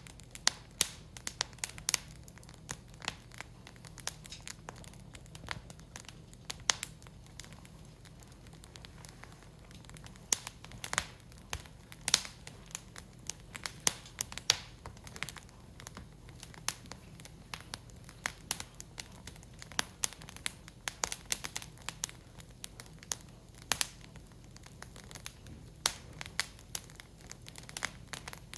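Firewood burning in a Picogrill fire pit, crackling with frequent irregular sharp pops and snaps.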